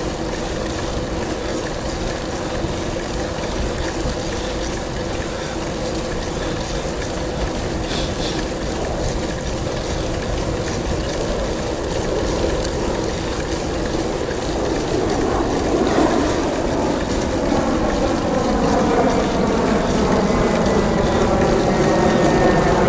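Bicycle rolling along a paved road: steady tyre hum and wind noise on the microphone, growing a little louder and fuller over the last several seconds.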